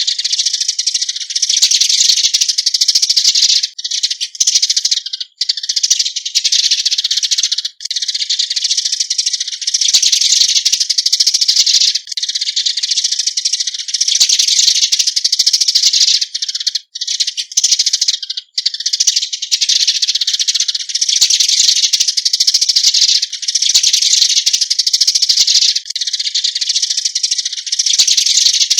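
Eurasian tree sparrows giving their flock call: a loud, dense chatter of rapid high chirps, broken only by a few brief pauses.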